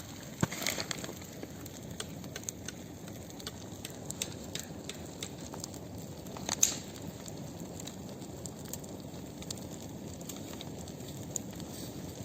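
Large bonfire crackling, with many small sharp pops over a steady rushing hiss and one louder pop a little past halfway.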